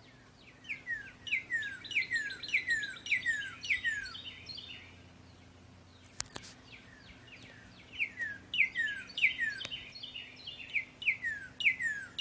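Northern cardinal singing: a fast series of repeated down-slurred whistles, in two phrases with a short pause between them. A single sharp click comes about halfway through.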